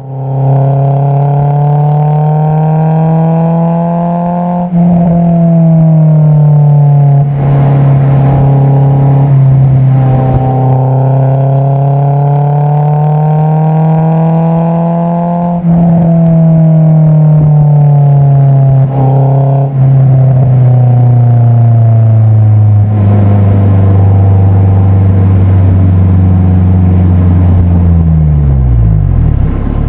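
Honda S2000 AP2's 2.2-litre four-cylinder heard through an Invidia Q300 aftermarket exhaust, close to the tailpipe. The engine note climbs in pitch under acceleration and drops sharply at each upshift several times over, then holds lower and falls in pitch near the end as the car slows.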